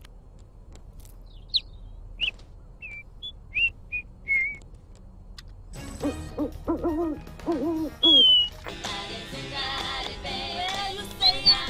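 Small bird chirps and short whistled tweets, then a run of low hooting calls about six seconds in, with music coming in near the end.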